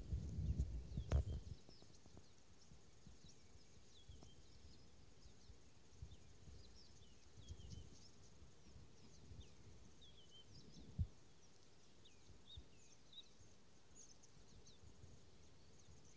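Faint, scattered bird chirps, many of them short falling notes, over quiet outdoor ambience. Low thumps in the first second and a half and a single knock about eleven seconds in.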